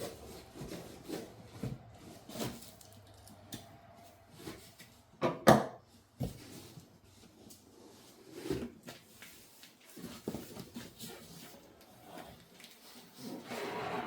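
Handling noises from opening a cardboard shipping box: scattered rubbing and knocking, with one loud sharp knock about five and a half seconds in.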